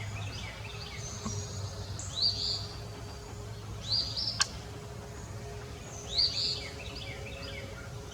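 A songbird sings short, quick phrases about every two seconds. One sharp click sounds a little over four seconds in.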